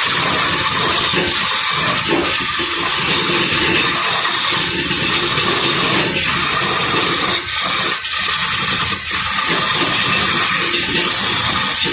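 Steady, loud rushing noise of a machine running, with brief dips in level about seven and a half, eight and nine seconds in.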